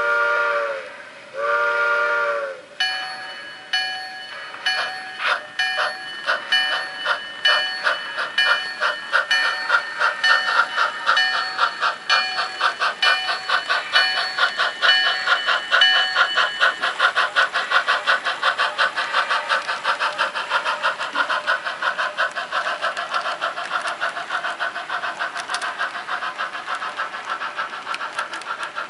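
Sound-equipped HO scale model steam locomotive giving two whistle blasts, then chuffing as it pulls away, the exhaust beats coming steadily faster as it gathers speed. Ringing tones repeat over the chuffs for roughly the first half. Two short blasts are the steam-era signal that the train is starting off.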